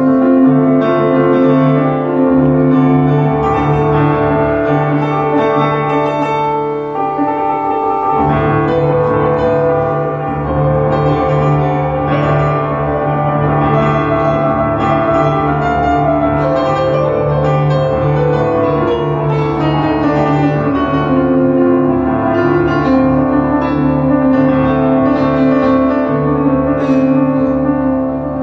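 Instrumental music led by piano, over steady held low notes that break off briefly about eight seconds in.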